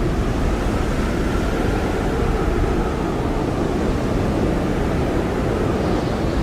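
Blizzard wind blowing hard and steadily: a dense low rush with a faint howling tone that slowly wavers in pitch.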